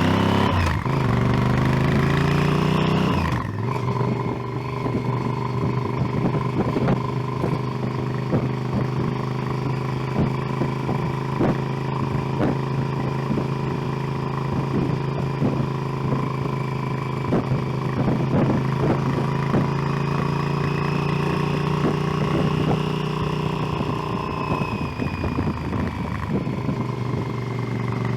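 Motorcycle engine accelerating for the first few seconds, then dropping in pitch at an upshift about three seconds in and running at steady revs while cruising, with a slight easing of the revs near the end. Frequent short crackles come from the microphone throughout.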